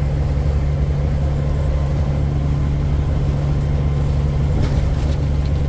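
1980 Kenworth K100E cab-over truck's diesel engine running steadily, heard from inside the cab as an even low drone.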